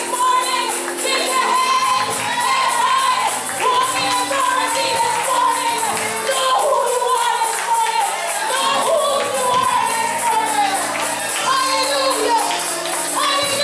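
Church gospel music: voices singing over held instrumental chords, with a tambourine shaking in a steady rhythm.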